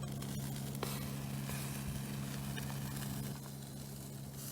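Food sizzling over a wood fire, with a few faint crackling pops, over a steady low hum that drops away about three seconds in.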